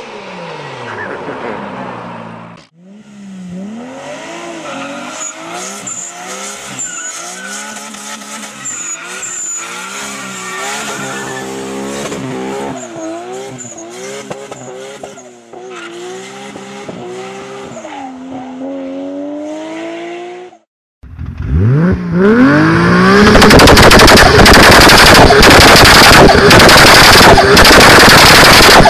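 Toyota Supra MK4's 2JZ-GTE twin-turbo straight-six across several clips. First the revs fall away; then the engine is revved up and down again and again; then, after a brief gap, a much louder rev climbs with rapid popping bangs from the exhaust.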